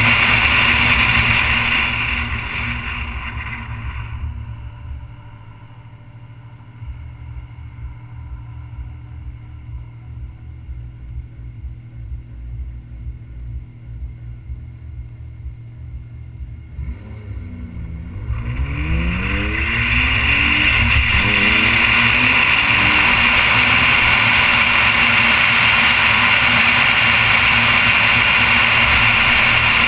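Noble M400's twin-turbo V6 slowing down and idling quietly for about twelve seconds. About seventeen seconds in it pulls away, the revs climbing in a few quick rising sweeps as it shifts up, then settles into steady cruising with loud road noise.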